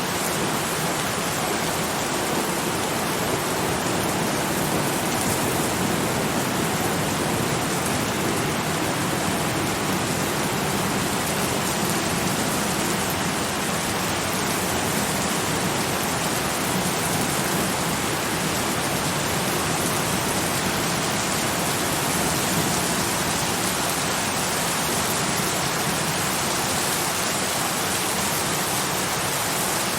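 Steady, heavy rain: a dense, even hiss with no single drops or thunder standing out.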